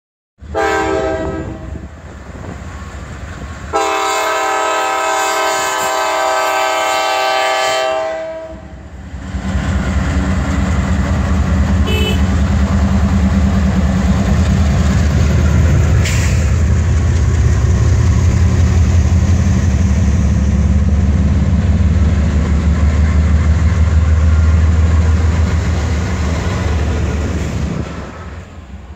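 Norfolk Southern diesel-electric freight locomotives passing close: the air horn sounds a short blast, then a long one of about four seconds, followed by the heavy low rumble of the locomotives' diesel engines going by, which drops off near the end as the container cars follow.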